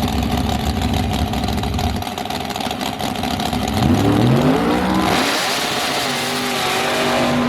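Race car engine accelerating hard, its pitch climbing, stepping down and climbing again as it shifts, then holding high and steady.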